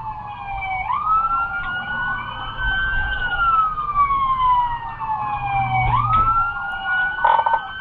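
Police car siren wailing over the low rumble of the patrol car's engine, its pitch slowly falling and then sweeping quickly back up about every five seconds.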